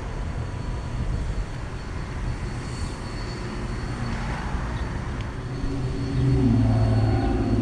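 Steady hum of outdoor air-conditioner condensing units running, compressor and fan together. About six seconds in, a louder engine-like drone with a clear pitch rises over it.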